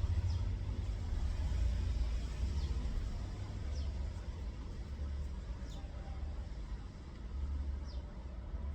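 Small birds giving short, high, falling chirps every second or two over a steady low rumble.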